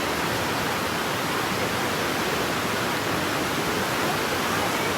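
Steady rushing of a fast-flowing river, white water running without a break.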